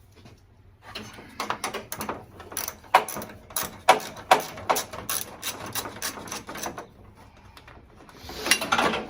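Hand ratchet clicking in quick, uneven runs for several seconds as fasteners are worked, then a short scraping noise near the end.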